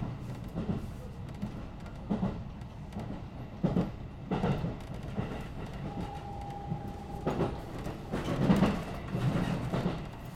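JR 211 series electric train heard from inside the carriage: a steady running rumble with wheels clacking irregularly over rail joints, busiest near the end, and a short steady tone a little past the middle.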